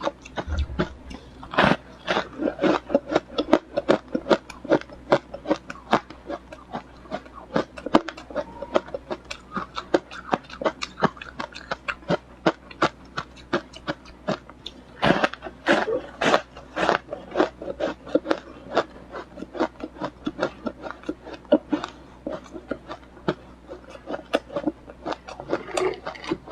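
Ice being bitten and chewed close to the microphone: a rapid, continuous run of crisp crunches and cracks, with a few louder bites about two seconds in and again around fifteen to seventeen seconds.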